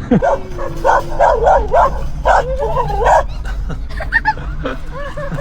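Dog barking and yipping in a quick run of short barks, then whining with wavering, higher-pitched tones near the end.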